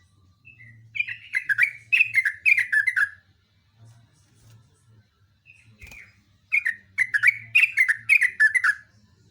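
Yellow-vented bulbul (trucukan) singing two quick, chattering phrases of repeated falling notes, one about a second in and the other after about six and a half seconds.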